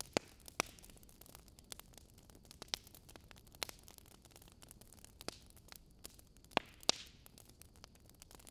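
Metal spoon scooping diced avocado out of its skin onto a plate: scattered sharp clicks and taps of the spoon against the plate, with soft scraping between. The loudest pair of clicks comes near the end.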